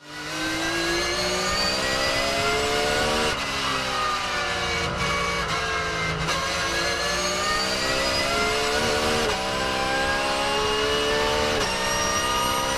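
Porsche 911 GT3 R (992) race car's naturally aspirated flat-six at full throttle, a screamy, loud note. It rises in pitch and drops sharply at an upshift about three seconds in, then falls as the car slows. Later it climbs again, with two more quick upshifts from its pneumatic paddle-shift gearbox near the end.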